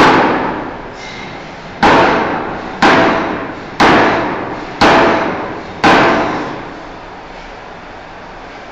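Forging hammer striking a steel bar six times, about once a second, each heavy blow ringing and fading before the next. The blows stop a little past halfway.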